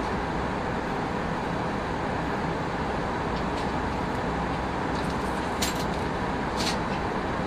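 Steady roar of airflow and jet engines inside an Airbus A319 cabin in flight, even and unbroken, with a couple of brief clicks near the end.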